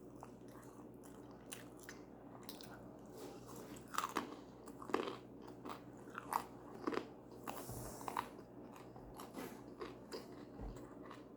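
A person biting and chewing food, with scattered short crunches, most of them from a few seconds in until near the end.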